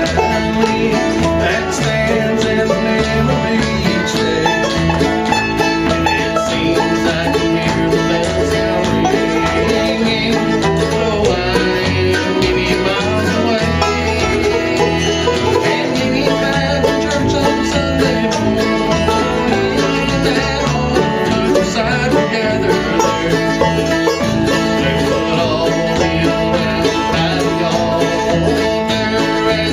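A bluegrass band playing live, banjo picking over acoustic guitar with a steady beat.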